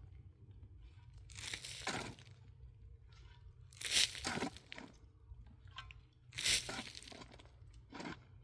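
Repeated digging strokes: four crunching scrapes, roughly every two seconds, as a hand tool bites into packed snow and ground.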